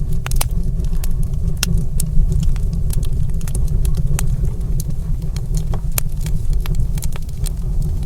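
Wood fire burning in a stone fireplace, crackling with frequent irregular pops and snaps over a steady low rumble.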